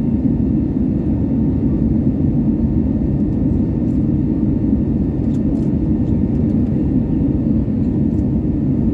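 Airbus A320neo's Pratt & Whitney PW1100G geared turbofan engines and airflow heard from inside the cabin as a loud, steady, even rumble during the takeoff, with a few faint rattling ticks about halfway through.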